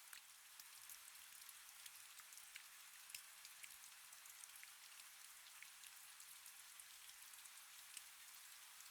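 Faint, steady rain: an even hiss with many scattered individual drops ticking.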